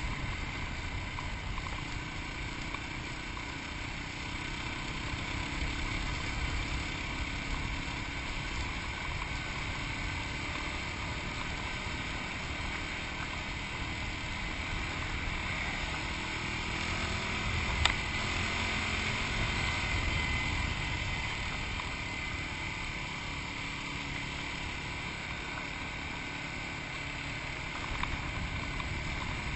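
Yamaha WR250X motorcycle's single-cylinder four-stroke engine running steadily while riding, mixed with wind noise on the microphone. A single sharp click about two-thirds of the way through.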